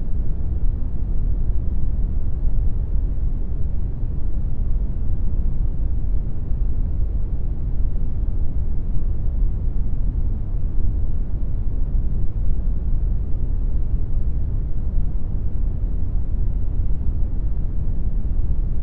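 Steady brown noise, a deep, even rumbling hiss with most of its energy at the low end, made in Audacity.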